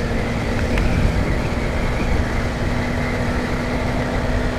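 Honda CBR150R single-cylinder engine running at a steady cruising speed, a constant hum under a steady rush of wind and road noise on the helmet microphone.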